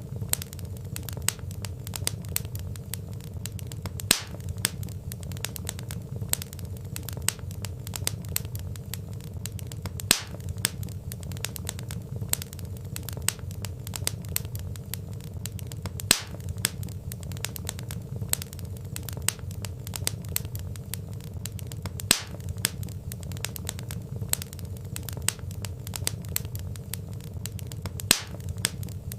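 Wood fire crackling, with many small snaps over a steady low rumble and a louder pop about every six seconds.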